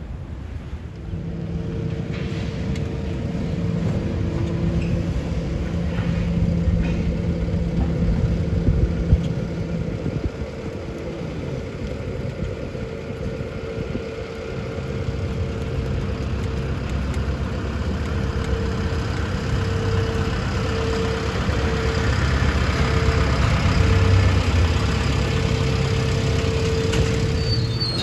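A diesel engine of heavy demolition machinery running steadily, with a constant whine held over a low rumble; the sound grows louder and harsher in the second half.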